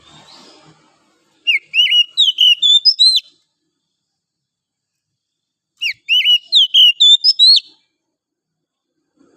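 Oriental magpie-robin singing: two short phrases of quick, loud whistled notes, each about a second and a half long, with a few seconds of silence between them.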